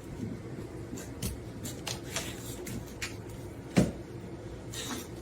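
Scattered clicks and knocks, with one louder thump a little under four seconds in and a short rustle near the end.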